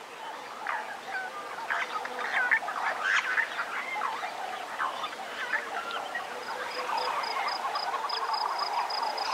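Wetland birds calling: a run of short honking calls that bend up and down in pitch, then from about six and a half seconds in a denser chorus of calls with an evenly pulsed high note repeating above it.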